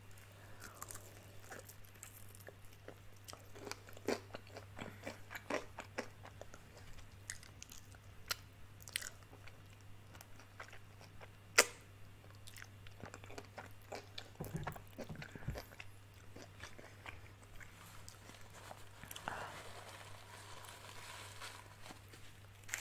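Close-miked biting and chewing of crispy fried chicken wings: wet chewing with scattered crunches of the breading, one sharp crunch a little past halfway, over a steady low hum.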